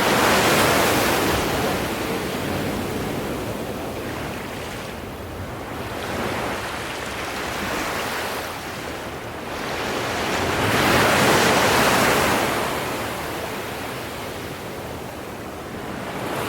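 Ocean surf: waves breaking and washing in slow surges that swell and fade, loudest about a second in and again around eleven seconds in.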